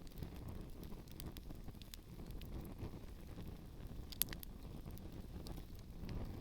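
Campfire burning with shoes in it: scattered crackles and small pops, one sharper pop a little past four seconds in, over a steady low rumble of wind on the microphone.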